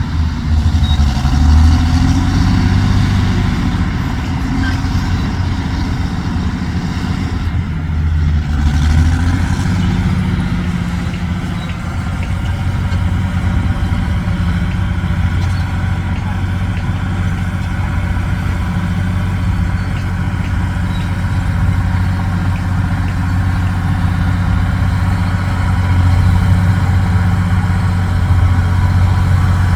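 Heavy diesel truck engine running. Its revs rise and fall during the first several seconds, then it settles into a steady run.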